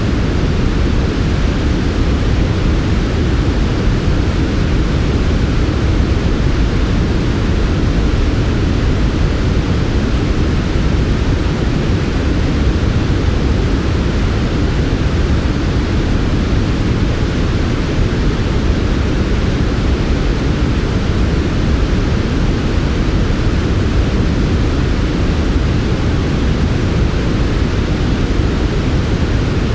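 Steady, smooth white noise of the kind played for sleep, with most of its weight in the low end and the highs softened. It does not change.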